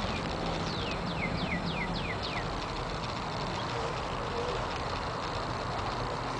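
A bird calling a quick run of about six short notes, each sliding down in pitch, over a steady background noise.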